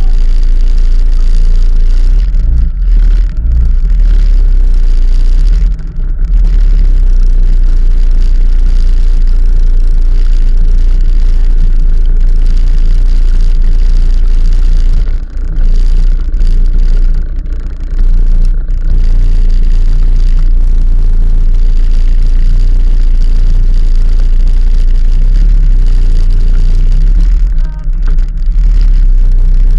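Loud, steady wind rumble buffeting an action camera's microphone while riding, with a few brief dips where the gusts ease.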